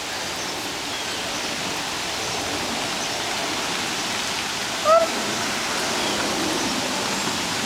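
Steady rain falling, an even hiss throughout, with one short rising voice sound about five seconds in.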